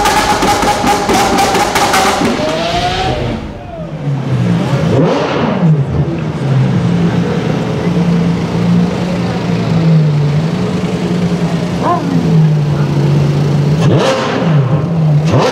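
Ferrari F12's V12 engine, through an Armytrix exhaust, held at high revs for about two seconds and then dropping back. It settles into a low idle with a few short throttle blips, the last ones near the end.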